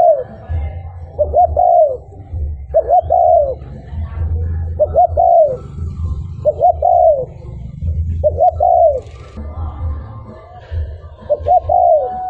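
Spotted dove (cu gáy) cooing: a short, arched, multi-note coo phrase repeated about every two seconds, over a steady low hum.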